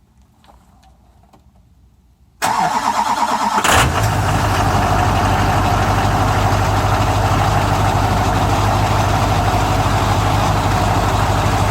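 2001 Chevy Duramax 6.6-litre LB7 turbo-diesel V8 cold-started at 20°F with no block heater plugged in. About two and a half seconds in, the starter cranks for a little over a second before the engine catches. It then settles into a steady, loud idle.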